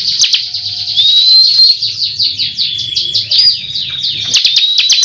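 Ciblek kristal, a prinia, singing a lure song: a rising whistled note about a second in, rapid chattering phrases, then a fast run of sharp repeated notes near the end.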